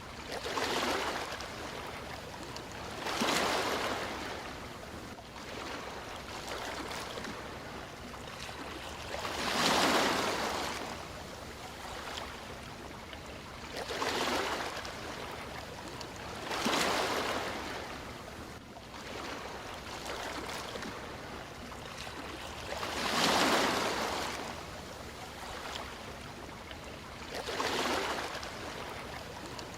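Sea waves breaking and washing in, a steady hiss of surf that swells louder about seven times, every few seconds.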